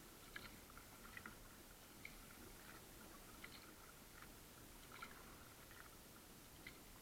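Near silence, with faint, irregular small ticks, about one or two a second, over a low steady hiss.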